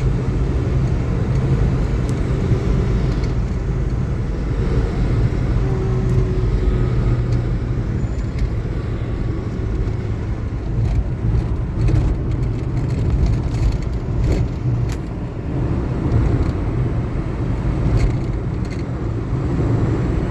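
Car driving: steady engine drone and road noise.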